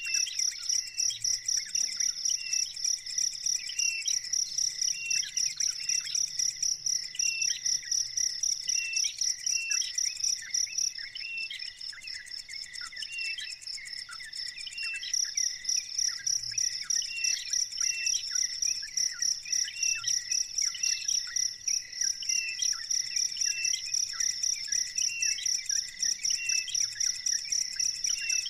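A high, steady insect trill of rapid pulses, which breaks off for a few seconds near the middle, with short chirps repeating underneath it.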